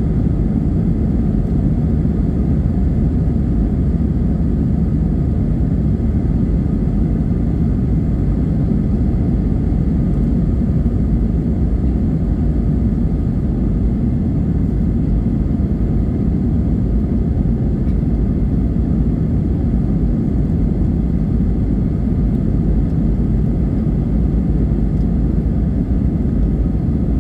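Airbus A320 jet engines and airflow: a steady low roar with a faint thin whine above it, holding the same level throughout.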